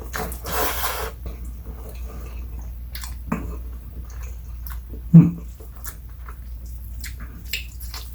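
Close-miked chewing of instant stir-fried noodles, with small wet mouth clicks and one loud low thump about five seconds in, over a steady low hum.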